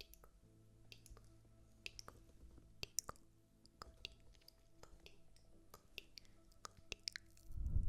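Scattered soft clicks and taps close to the microphone, a few every second, over a faint low hum; a loud low rumble starts near the end.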